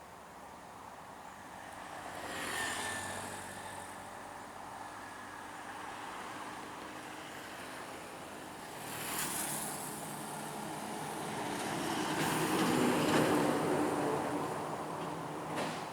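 Scania P420 trucks in a convoy driving past one after another: engine and tyre noise swells and fades three times, about two seconds in, about nine seconds in, and loudest in a longer pass about twelve seconds in.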